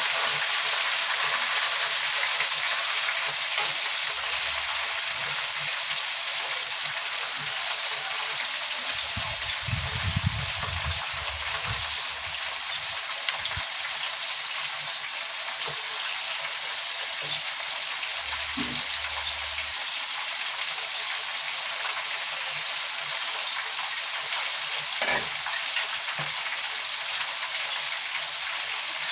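Chicken pieces deep-frying in hot oil: a steady, even sizzle, with a few brief low knocks partway through.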